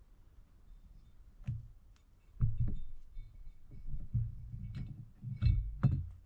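Scattered knocks and clicks of carburetor parts and tools being handled and set down on a workbench during a rebuild, about half a dozen, the loudest about two and a half seconds in and near the end.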